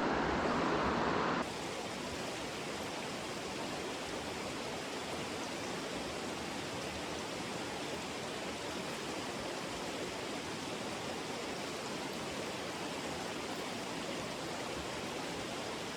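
Steady rush of running stream water, an even hiss with no breaks. About a second and a half in it changes abruptly to a slightly quieter, brighter rush that holds steady.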